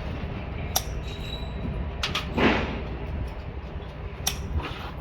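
Rebar being tied with steel tie wire and pliers: a few sharp metallic clicks and a brief swish as the wire is twisted and snipped. A steady low rumble runs underneath.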